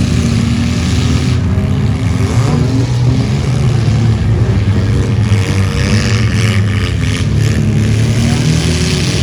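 Mini truck engines running and revving, with a loud, steady drone whose pitch rises and falls.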